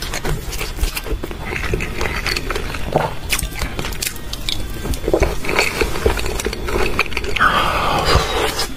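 Close, wet chewing and lip-smacking of raw salmon sushi and sashimi, with many quick clicking mouth noises. Near the end comes a longer noisy slurp as a whole slice of raw salmon is sucked into the mouth.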